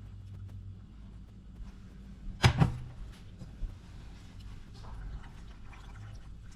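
Kitchen cookware clatter while noodles are mixed into a baking dish: a sharp double knock about two and a half seconds in, then faint scraping and clinks. A low hum runs underneath.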